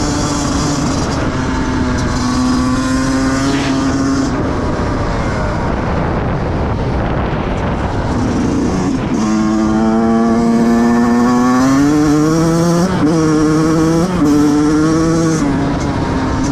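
Single-cylinder two-stroke engine of a 2005 Yamaha YZ125 motocross bike being ridden, its pitch rising and falling with the throttle. A bit past halfway it climbs steadily through the revs, then drops sharply a few times near the end as it shifts up.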